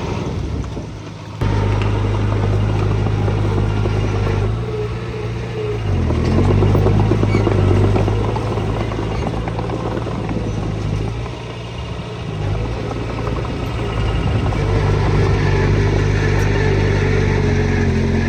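Diesel engine of heavy machinery running under load with a steady pitch. It gets suddenly louder shortly after the start, and the revs dip and pick up again about six seconds in.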